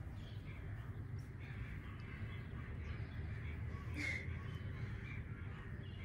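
Quiet room ambience: a steady low hum, with faint distant bird calls, one a little clearer about four seconds in.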